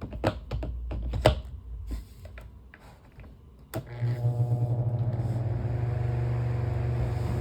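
Scattered handling clicks and knocks, then a sharp click about halfway through as the electric fan is switched on. Its motor then hums steadily with a replacement blade fitted, and the fan runs in balance without vibrating.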